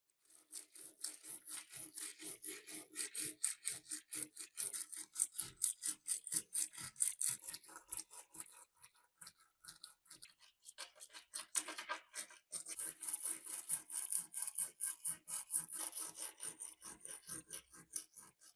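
Quick back-and-forth rubbing strokes by hand, about five a second, like sanding or scrubbing a part, with a short pause near the middle.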